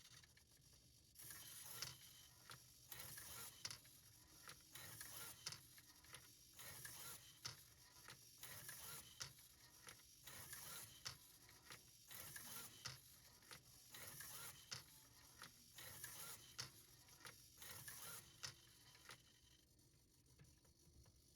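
Small 3D-printed plastic mechanism running, with faint scraping and clicking that repeats about every one and a half seconds. It starts about a second in and stops near the end.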